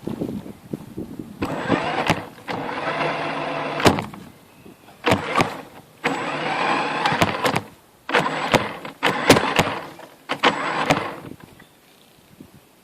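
Electric motor and gearbox of a Tamiya CC-01 radio-controlled truck whining in five or six short throttle bursts, the pitch rising and falling within each burst, with sharp clicks between them. The bursts stop about a second before the end.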